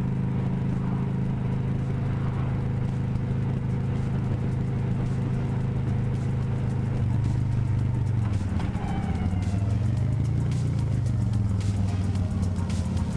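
A vehicle engine running steadily; about eight seconds in its pitch drops, then rises and falls again as it is driven. Music with a regular beat comes in over the second half.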